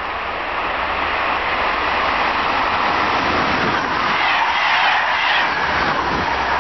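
Passenger train passing close by at speed: a rising rush of wheel and rail noise that grows louder as the train approaches and peaks as the coaches sweep past.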